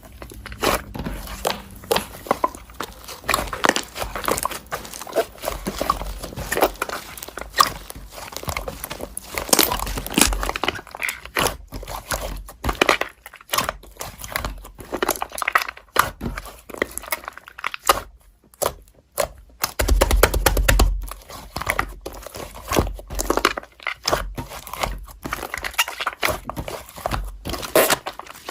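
Close crinkling and rustling of something being handled, with many irregular small clicks and taps and a short lull partway through.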